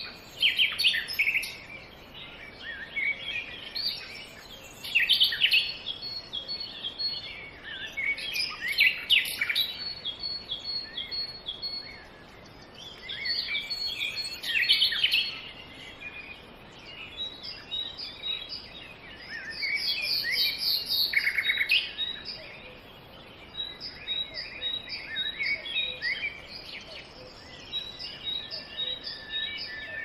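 Several birds chirping and calling over one another, with short repeated chirps and quick trills, one fast trill about two-thirds of the way through.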